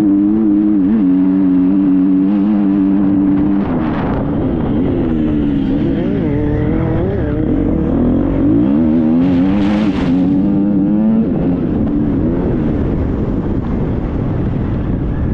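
Triumph 250 motocross bike's four-stroke single-cylinder engine running hard. It holds a steady pitch for the first few seconds, then its pitch rises and falls repeatedly with the throttle and gear changes.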